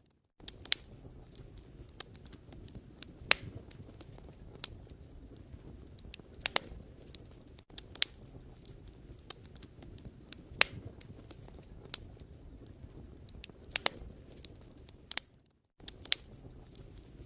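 Wood fire crackling in a fireplace: a steady low rumble of burning with sharp, irregular pops and snaps. The sound drops out for a moment near the end.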